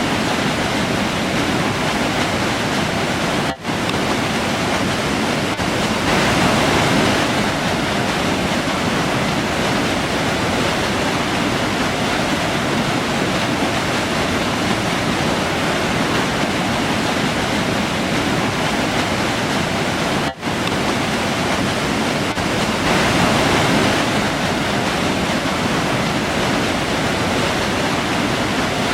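A forest river rushing steadily, a dense, even roar of flowing water. It swells a little twice and drops out for an instant twice.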